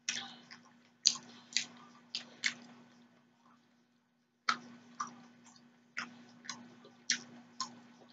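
Close-miked eating sounds: chewing a mouthful of shrimp and noodles, with sharp wet mouth clicks and smacks about twice a second. There is a pause of a second or so midway, over a faint steady hum.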